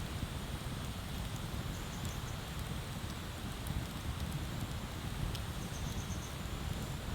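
Wood bonfire burning with a steady low rush and a few sharp crackling pops.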